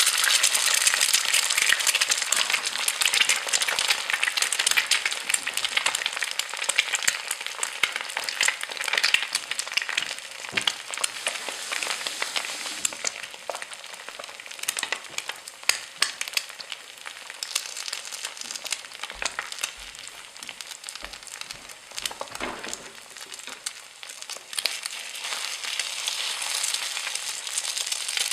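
Vegetables sizzling as they fry in hot oil in a pan, with the clicks of stirring. The sizzle is loudest at first and dies down after about ten seconds.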